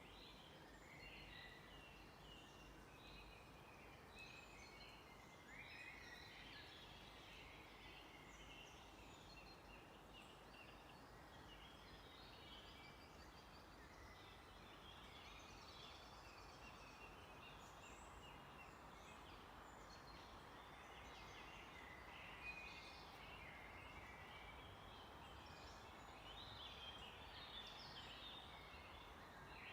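Faint chorus of several songbirds chirping and trilling in quick overlapping phrases, over a soft steady background hiss.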